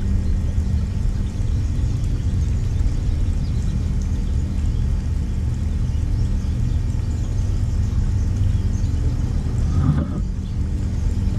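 A steady low rumble, with faint high chirps of small birds above it and a brief rising sound about ten seconds in.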